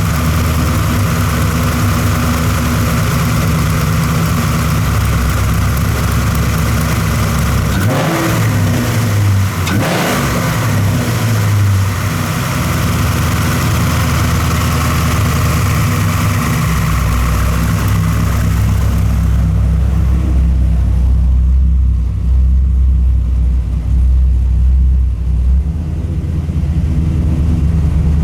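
1998 Camaro 5.7L LS1 V8 with an aftermarket camshaft, idling steadily with two quick revs about eight and ten seconds in.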